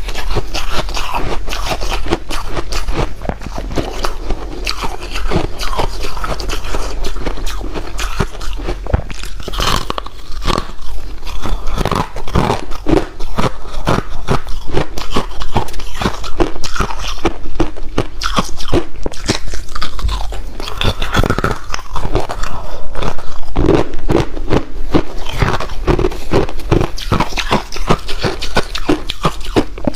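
A person biting and chewing white ice, close to the microphone: a dense, continuous run of crisp crunches.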